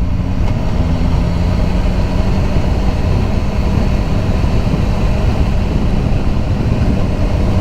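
BMW S1000R's inline-four engine running steadily at riding speed, with a constant even note.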